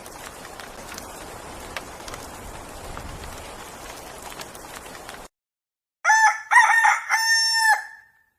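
Rooster crowing one cock-a-doodle-doo of several syllables, about two seconds long, the loudest sound here. Before it comes a steady hiss with scattered clicks that cuts off abruptly to silence just over five seconds in.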